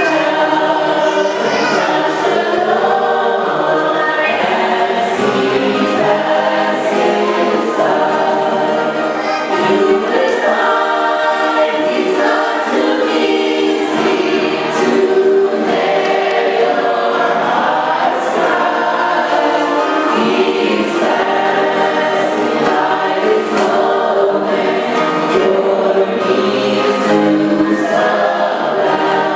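Choir singing, steady in loudness throughout.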